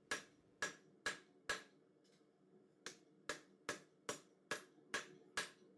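Hand hammer striking 4140 steel bar stock on an anvil while forging a chisel: four even blows, a short pause, then a steady run of about eight more blows at roughly two a second.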